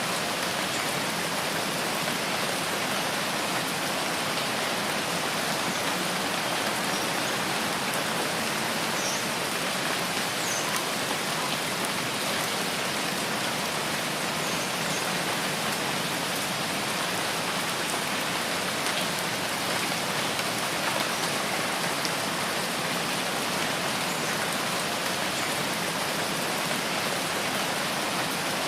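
Steady rainforest rain: an even hiss of falling rain with no let-up.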